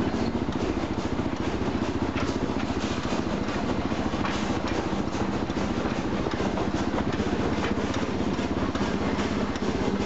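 Kawasaki KLR650's single-cylinder engine running steadily, a fast even pulse with no change in pace.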